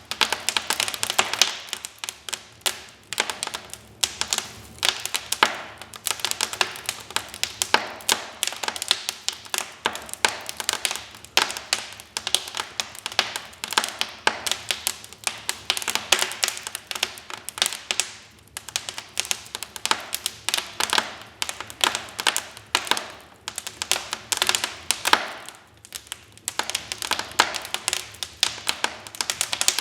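Wood fire crackling in a fireplace: a dense, irregular run of sharp crackles with louder pops here and there.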